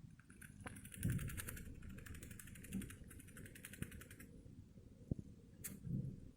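Pet rat grinding its teeth (bruxing): a rapid run of fine clicks for about three and a half seconds, then a single sharp click near the end.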